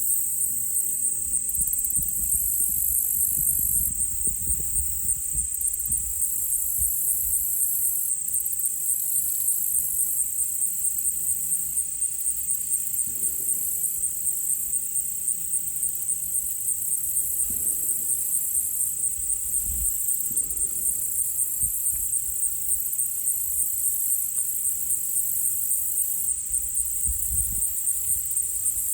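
Insect chorus, a steady high-pitched trill with a fast, even pulse, over an uneven low rumble.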